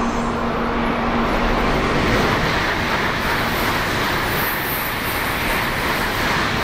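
A white-and-blue N700-series Tokaido Shinkansen train running past on the track beside the platform: a steady rushing roar of wheels and air that grows fuller and hissier about two seconds in.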